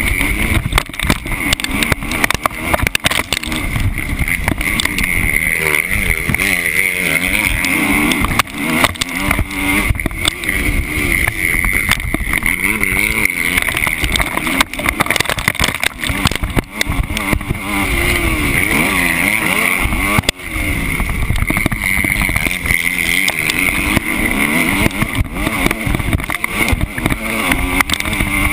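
Motocross bike engine revving up and down again and again as it is ridden hard round a dirt track, picked up by a camera mounted low on the bike, with frequent short knocks throughout.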